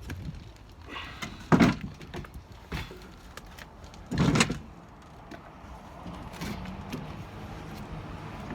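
New Milgard double-hung window frame being set into the opening: a loud knock about a second and a half in and a longer scraping bump about four seconds in, with lighter clicks and taps between.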